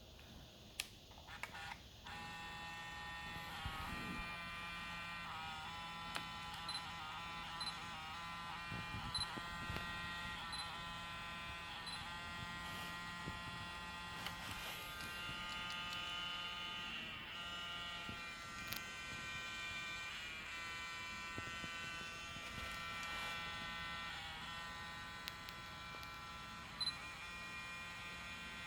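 Zeiss Batis 18mm f/2.8 lens's autofocus motor buzzing steadily as it malfunctions, with the strange noise and vibration of a known fault. The buzz starts about two seconds in and shifts pitch every second or two, with scattered small clicks.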